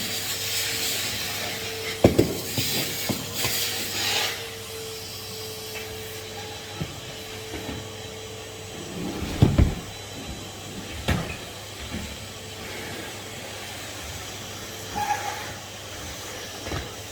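Henry HVR200 620 W vacuum cleaner running with a steady whine and air-suction hiss. The hiss is louder for the first few seconds, then settles lower. A few sharp knocks come about 2, 9 and 11 seconds in.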